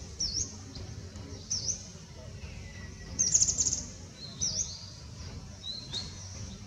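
A small bird calling repeatedly: short, high, sharp chirps about every second, with a quick run of rapid notes a little after three seconds in. A steady low rumble runs underneath.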